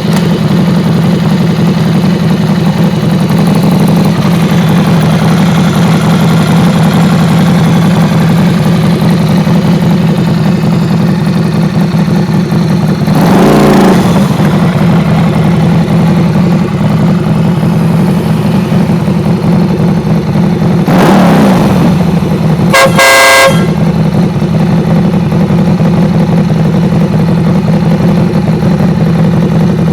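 Ducati Scrambler's 803 cc L-twin running steadily through a Shift Tech aftermarket exhaust, with two brief throttle blips. A single short blast of a Stebel horn comes a little past the middle.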